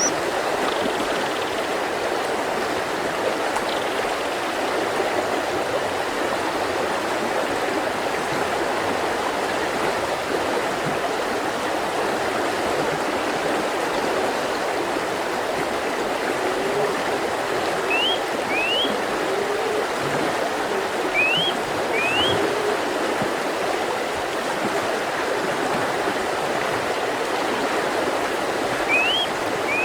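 Mountain river rushing steadily over rocks. A bird gives pairs of short rising chirps a few times in the second half.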